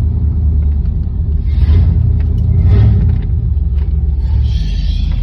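Steady low rumble of a vehicle's engine and road noise while driving, with brief hissing swells about a third of the way in, around the middle and near the end.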